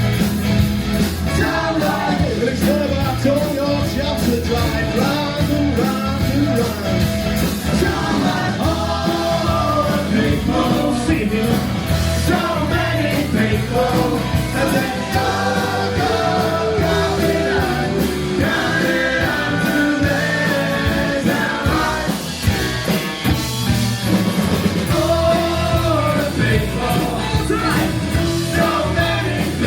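Live rock band playing a song, with a sung melody line over guitars, bass and drums.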